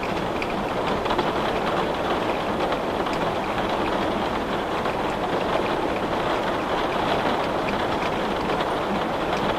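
Steady rain falling against a window, with scattered drops tapping on the glass.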